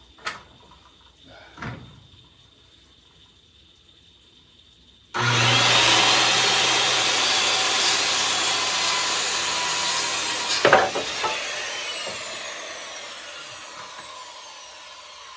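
Electric saw starting about five seconds in and cutting through a wooden board, with a sharp crack a little after halfway as the cut finishes. The blade then winds down slowly, its whine falling in pitch. A few light knocks come before the saw starts.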